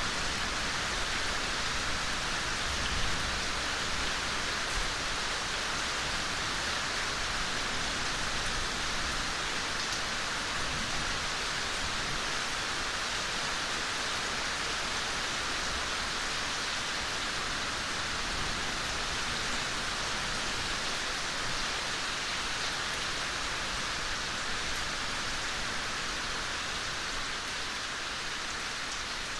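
Steady soft rain falling, an even hiss of many drops with no single drop standing out.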